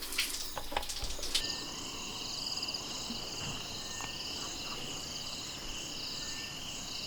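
A steady night chorus of insects: several high trilling, pulsing bands layered together. It starts about a second and a half in, after a few short clicks.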